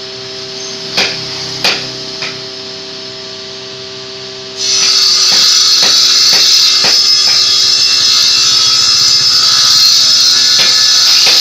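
A few hammer blows on wood, then about four and a half seconds in a power tool starts abruptly and runs steadily with a loud, high hiss.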